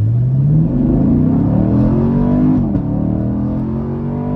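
Chevrolet Camaro SS's 6.2-litre V8 at full throttle in a 0 to 60 mph run, heard from inside the cabin. The engine note climbs steadily, dips at an upshift of the 10-speed automatic about two and a half seconds in, then climbs again to another shift near the end.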